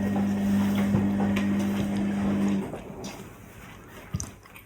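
An electrical appliance hums steadily at a low pitch, then switches off abruptly about two and a half seconds in, leaving a few faint clicks.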